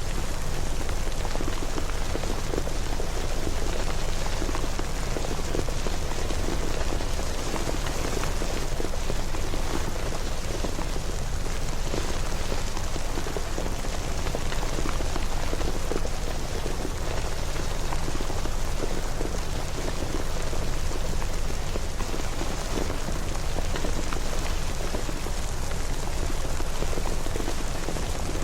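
Steady rain falling, an even, unbroken hiss of dense drops with no thunder or other events.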